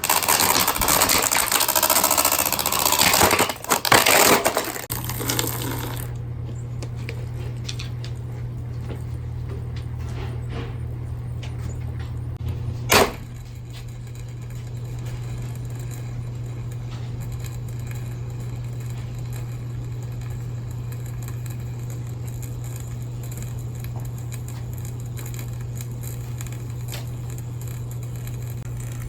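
Hurricane box fan running with a loud clattering rattle for the first few seconds. The clatter then stops and a steady low motor hum carries on, broken once by a sharp knock about thirteen seconds in.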